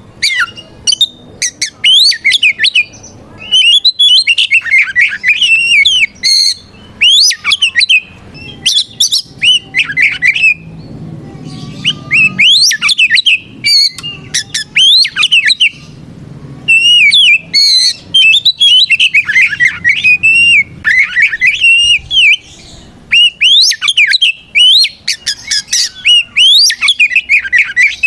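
Oriental magpie-robin (kacer) singing loudly and almost without pause: rapid phrases of varied whistles mixed with harsh squawking notes, each phrase lasting a second or two with short breaks between. This is the bird's fierce territorial challenge song, calling out a rival.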